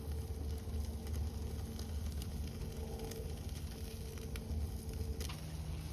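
Fire crackling with scattered faint ticks over a low, steady rumble.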